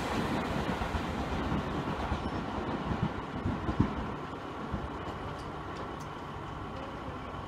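Seibu 2000 series electric train pulling out of the station, its wheels rumbling and clacking over rail joints, with a few sharp knocks about three to four seconds in. The sound fades as the train moves away.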